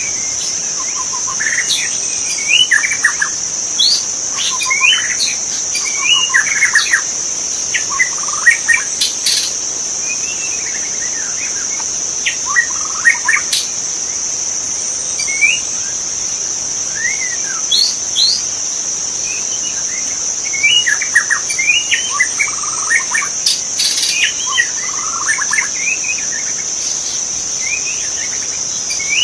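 White-rumped shama (murai batu) singing: varied whistled phrases and quick runs of notes in bursts with short pauses, over a steady high-pitched insect buzz.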